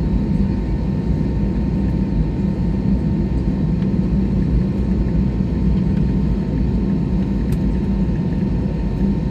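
Steady low rumble inside an airliner's cabin as it taxis or waits for take-off: jet engines at low power and cabin air, with a faint steady whine above it.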